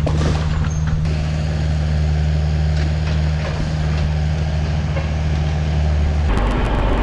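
Diesel engine of a Kubota compact machine (mini excavator or tractor-loader-backhoe) running steadily, a low even hum. About six seconds in, the sound changes abruptly to a rougher, clicking engine sound.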